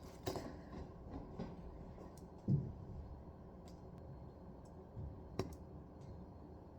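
Scattered small clicks and light knocks of handling, with a dull thump about two and a half seconds in and a sharp click near five and a half seconds.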